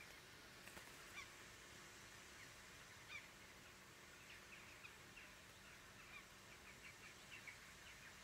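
Faint bird calls: many short, high chirps, scattered at first and coming more often in the second half.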